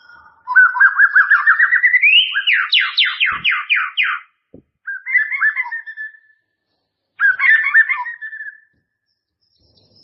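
White-rumped shama singing clear whistled song: a long phrase of rapid repeated notes climbing in pitch, then a run of quick downward-sweeping notes, followed by two shorter warbled phrases.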